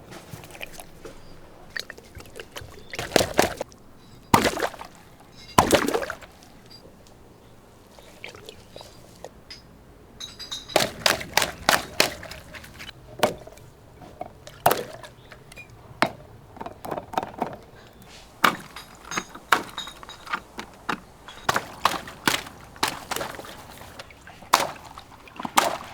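Water pouring and trickling into stretchy water-filled toys, with many short knocks, slaps and squelchy handling sounds, coming thickest in the second half.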